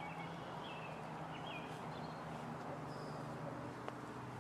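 Birds chirping: a scatter of short, whistled notes over a steady low background hum, with a single faint click near the end.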